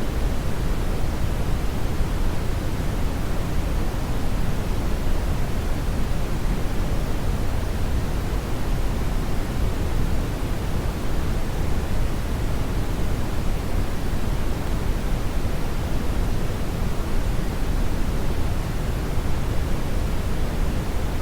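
Steady brown noise: a loud, even, low rumbling hiss with its energy weighted toward the bass, unchanging throughout.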